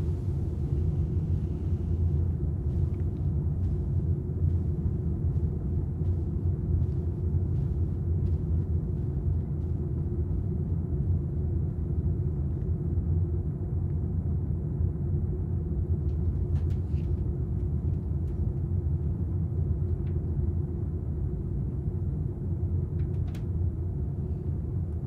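Steady low drone of an airliner cabin in flight, with a few faint light clicks in the second half.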